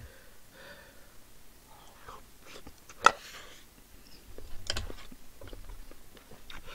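Close-miked eating: a mouthful of rice and Spam being chewed, with a sharp clink about three seconds in as the spoon is set down in the metal pot, and a few smaller clicks after it.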